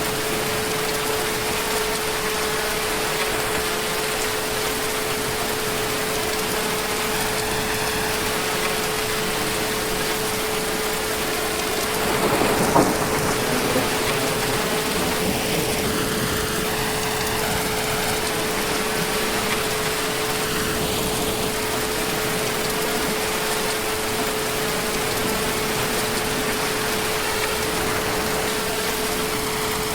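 Heavy rain falling steadily, with a brief louder clap of thunder about twelve seconds in.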